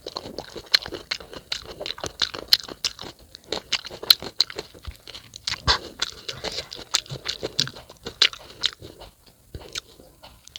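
Close-miked crunchy chewing of raw unripe fruit: a rapid run of crisp crunches and wet bites that thins out near the end.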